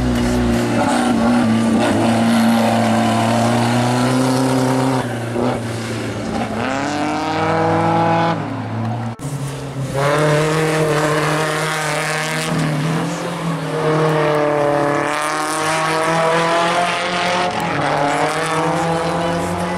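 Suzuki Vitara off-road race car engine revving hard, its pitch climbing and dropping through gear changes. The sound cuts abruptly about nine seconds in to another Vitara running on the track.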